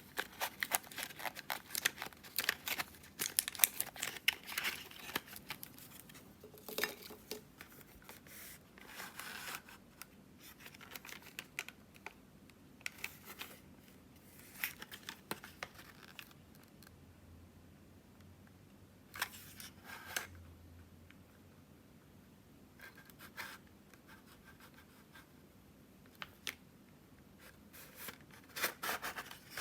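Packaging being handled close up: irregular crinkling, scratching and tearing in short bursts with sharp clicks. The bursts are busiest in the first third, sparse and intermittent through the middle, and pick up again near the end.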